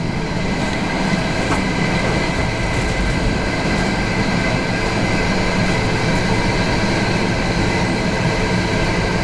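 Steady running noise of a passenger train at speed, heard from on board: wheels rolling on the rails and the carriage rumbling along.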